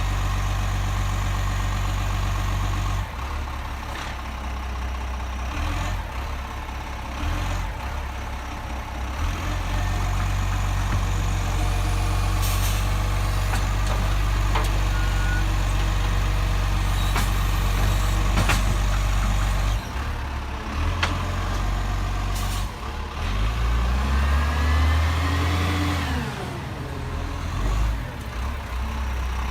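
Garbage truck's diesel engine running, with a few short air-brake hisses. Near the end the engine revs up and back down.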